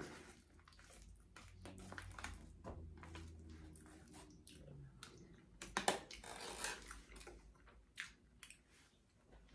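Quiet chewing of enchiladas, with scattered small clicks and rustles as food is picked out of an aluminium foil tray by hand.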